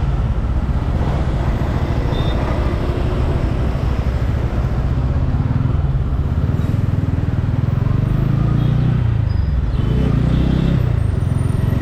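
Motorcycle engine running on the move, recorded from the bike, under a steady rush of wind and road noise. The engine pitch rises and falls about three-quarters of the way through as the rider works the throttle.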